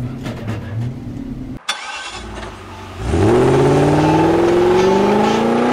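A touring car's engine running low and steady, heard from inside the car, cuts off abruptly; about three seconds in a car engine starts accelerating hard, loud, its pitch climbing steadily.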